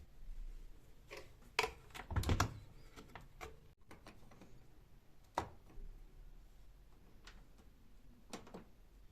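A few separate light knocks and clicks of household objects being handled, the loudest a short cluster a little over two seconds in, with single knocks about five and eight seconds in.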